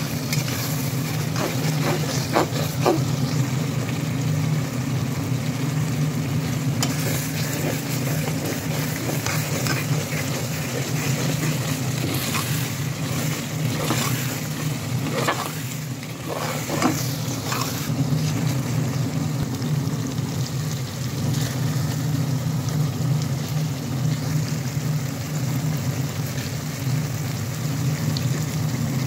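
Onion and tomato masala sizzling in hot oil in an aluminium pot, while a metal ladle scrapes and knocks against the pot as it stirs, with clusters of knocks in the first few seconds and again about halfway. A steady low hum runs underneath.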